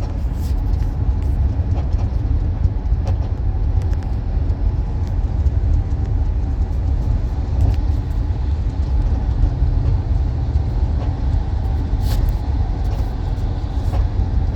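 Volkswagen car's steady low rumble, the noise from the rear of the car that the owner is recording, with a few faint clicks over it.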